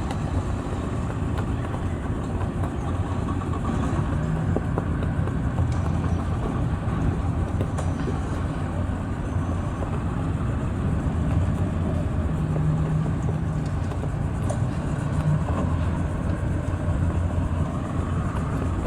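An engine running steadily with a low hum that swells slightly and eases off again.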